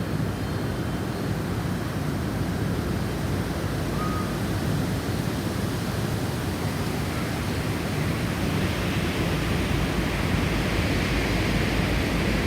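Snowstorm wind blowing steadily, with a higher hiss building in about two-thirds of the way through as a gust picks up.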